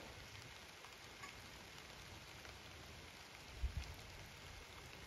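Soft, gentle rain falling on garden plants and wet ground: a faint, steady hiss with scattered small drip ticks. A brief low thump sounds about two-thirds of the way through.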